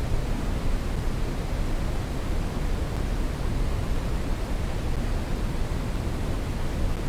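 Steady brown noise: an even, unbroken rushing hiss weighted toward the low end, with no tone or rhythm.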